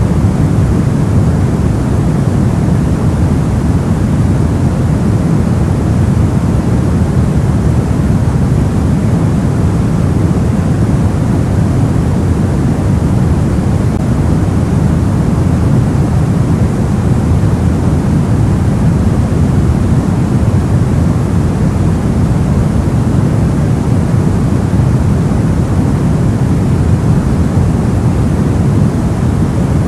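Soft white noise for sleep: a steady, even hiss weighted toward the low end, a deep rumbling rush with no changes.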